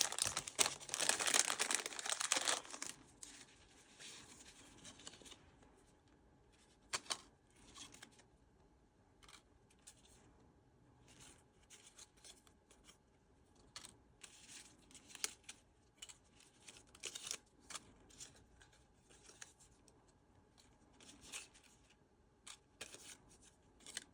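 Packaging crinkling and tearing loudly for the first two to three seconds as it is pulled open, then quiet, scattered rustles and taps of paper ephemera pieces being handled.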